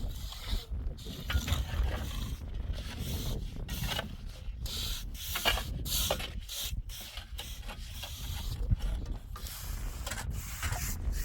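Irregular scraping, rubbing and knocking sounds, short and uneven, over a steady low rumble.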